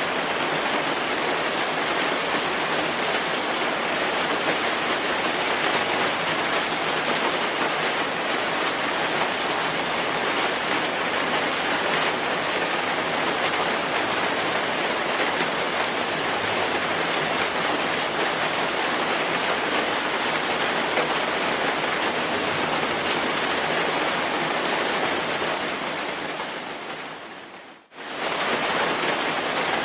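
Steady rainfall, an even hiss of drops. About 27 seconds in it fades down to near silence for a moment, then comes straight back at full level.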